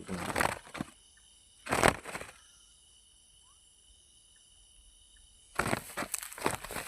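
Bursts of rustling and crackling, loudest about two seconds in and again near the end, over steady high-pitched trilling of night insects.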